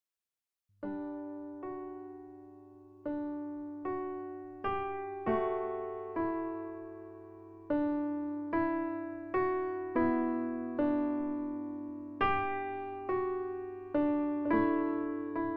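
Background music: a slow electric piano melody of struck chords, each note fading before the next, starting about a second in.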